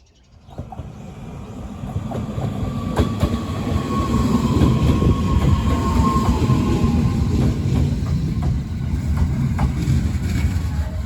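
Uchibo Line electric train running on the track: a loud, low rumble with repeated clicks of the wheels over rail joints and a faint, slowly falling whine. It comes up suddenly about half a second in.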